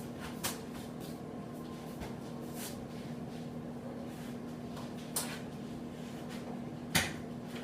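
Three short knocks or clicks, the loudest near the end, over a steady low hum.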